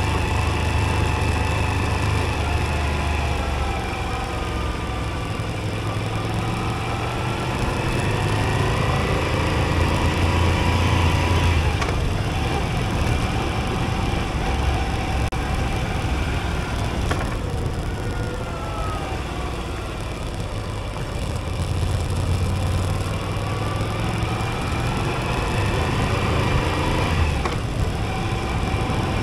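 Moto Guzzi V85TT's air-cooled transverse V-twin running on the move, its pitch rising and falling several times with the throttle through the bends, over a steady rush of wind.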